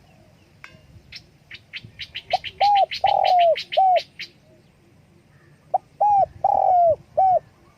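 Spotted dove cooing: two phrases of several rounded notes, the second starting about six seconds in. Over the first phrase, a smaller bird gives a quick run of high chirps that speeds up.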